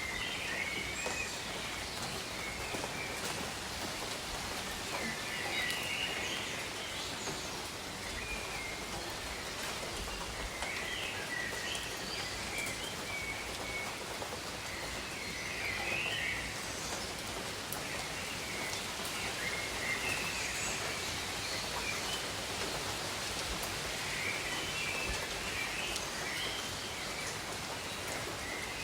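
Steady rain falling on tropical jungle, an even hiss throughout, with birds giving short chirping calls every few seconds.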